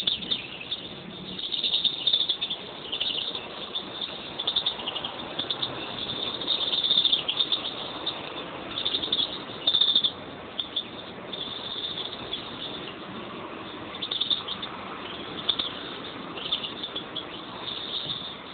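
European greenfinches chirping and twittering in repeated short bursts, with brief pauses between phrases.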